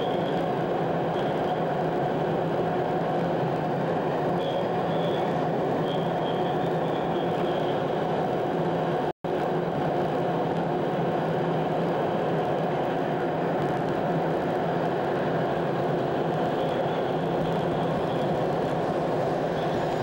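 ICE high-speed train running: a steady rumble with a constant hum and a faint high whine that comes and goes. A split-second dropout about nine seconds in.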